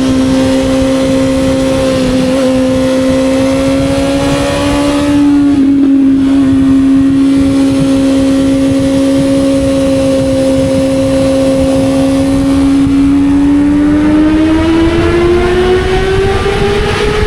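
Sport motorcycle engine pulling at steady high revs while riding, dipping briefly about five seconds in, then rising in pitch over the last few seconds as it accelerates, over a steady wind rumble.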